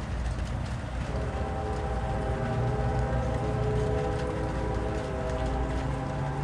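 Distant train horn sounding a long, steady chord of several notes from about a second in, over a low, steady rumble.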